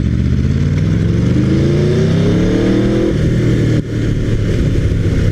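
Aprilia RSV4R's V4 engine through a GPR Thunder Slash exhaust, accelerating. The pitch climbs for about two and a half seconds, drops sharply about three seconds in, then runs steadily at lower revs.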